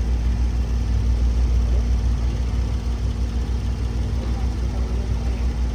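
Car engine idling: a steady, low, evenly pulsing rumble with no revving.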